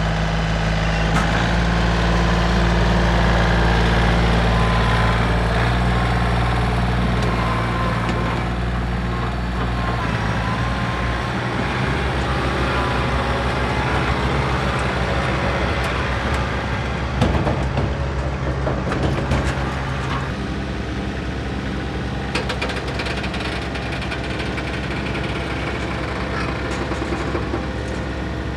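Diesel engine of a tractor or backhoe running steadily while working dirt, its pitch shifting about ten seconds in and again about twenty seconds in. A short run of clunks comes about seventeen seconds in.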